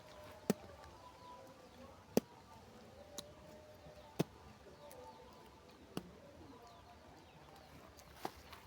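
About six sharp, irregularly spaced clicks and snaps as the green bark is peeled off a freshly cut twig to make a chewing stick, over faint bird calls.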